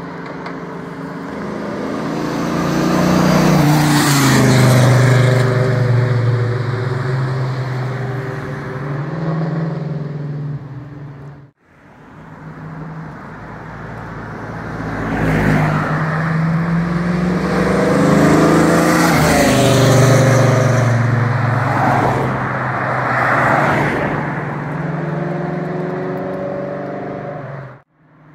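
1969 Camaro Z/28's 302 small-block V8 driving past twice. Each pass swells to a loud peak and fades away, the engine note dropping in pitch as the car goes by. The sound cuts out abruptly between the two passes, about eleven seconds in.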